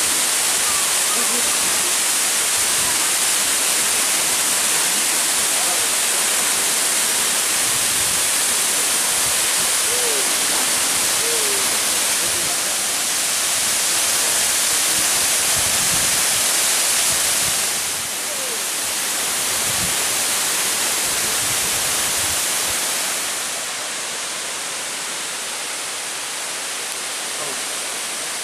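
Loud, steady rush of water, an even hiss strongest in the high range. It drops a little in level about 18 seconds in and again near 24 seconds.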